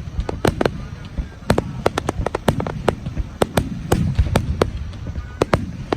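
Aerial fireworks bursting: a rapid, irregular run of sharp cracks and pops over a steady low rumble of booms.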